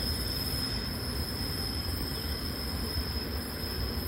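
Double-decker commuter train rolling by with a low rumble and a steady, high-pitched wheel squeal, like fingernails on a chalkboard.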